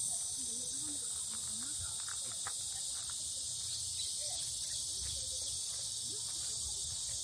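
Steady, high-pitched chorus of insects trilling without a break, with faint, distant voices in the background.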